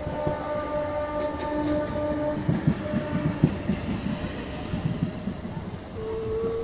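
A train horn sounds one steady note for about two and a half seconds. Then the wheels of the electric local train clatter over rail joints as it runs past the platform and yard, with a short higher horn note near the end.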